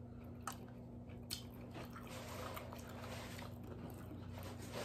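Faint chewing and wet mouth sounds of people eating sushi, with two light clicks in the first second and a half, over a steady low hum.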